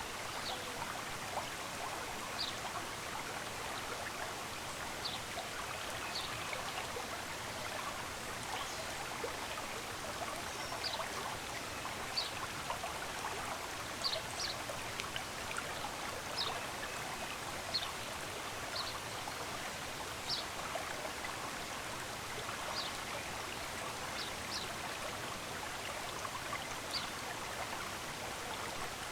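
A stream running steadily, with short high bird chirps scattered through it every second or two.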